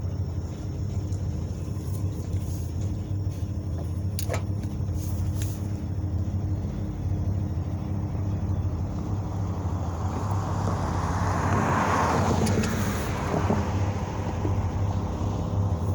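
EMD SD40-2 diesel-electric locomotives, their 16-cylinder two-stroke 645 engines running with a steady low drone. A broad rush of noise builds and fades about two-thirds of the way in.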